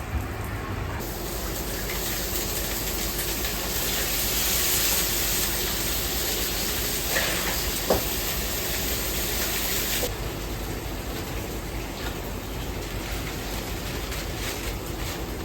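A steady rushing hiss in a ramen kitchen, like running water or venting steam. It starts about a second in, swells, then cuts off abruptly about ten seconds in. A few light clinks sound over it, and the kitchen's steady background noise continues after it stops.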